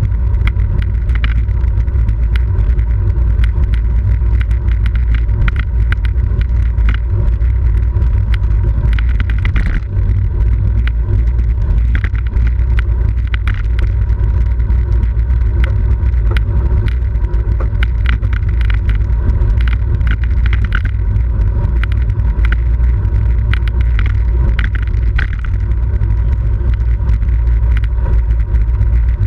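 Wind rushing over the microphone of a camera riding along on a racing bicycle: a loud, steady low rumble, with frequent small clicks and rattles.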